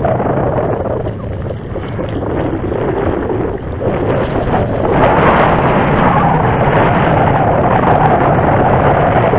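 Wind buffeting the microphone, a loud, steady rumble that grows louder about five seconds in.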